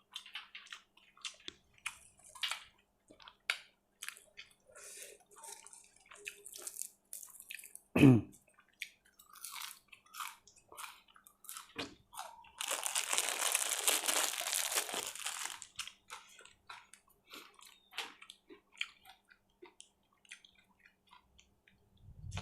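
Close-up mouth sounds of a person eating nam tok moo with sticky rice: irregular chewing, crunching and wet mouth clicks. A short hummed "mm" comes about a third of the way in, and about halfway through there is a hissing, rustling noise lasting about three seconds.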